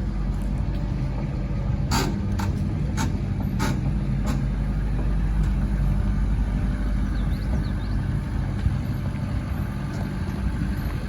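A vehicle engine running steadily at low speed, with several short clicks or knocks in the first few seconds.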